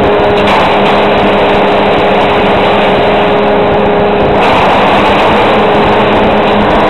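Fendt 924 Vario tractor working with a Kemper Champion 3000 forage harvester: a loud, steady machine noise with an even hum running under it.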